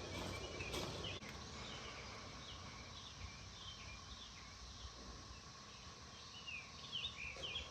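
Faint birds chirping in short repeated calls that grow louder near the end, with a brief knock about a second in.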